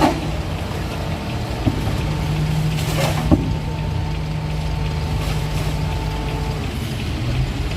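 Isuzu FVR garbage truck running steadily with a low hum. A few short knocks and a brief clatter come about three seconds in.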